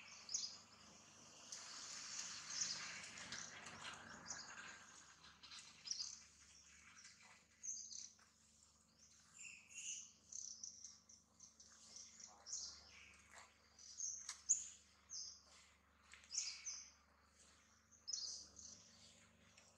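Birds chirping in short, high, repeated calls throughout, with a stretch of hiss-like noise in the first few seconds.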